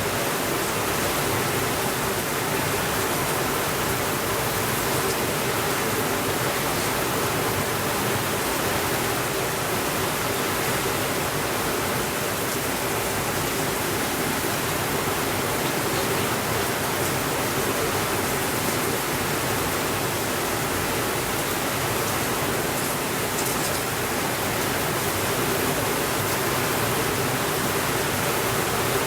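Heavy rain falling steadily, an even hiss without a break, with a few faint ticks here and there.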